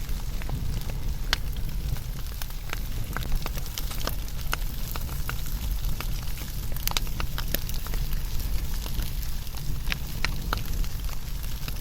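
Wood fire burning with a low steady rumble and frequent irregular sharp crackles and pops.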